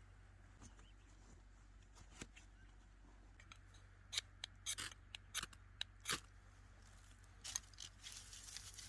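Crisp snipping and snapping clicks, a few scattered and then a quick run of them about four to six seconds in, over a low steady hum.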